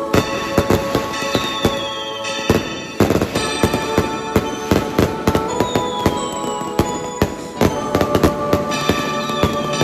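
Fireworks going off in rapid, irregular bangs and crackles, with a few falling whistles among them. Music plays underneath.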